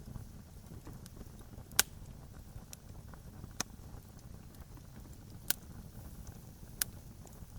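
Wood campfire crackling: sharp pops, four loud ones a second or two apart with fainter ticks between, over a steady low rumble.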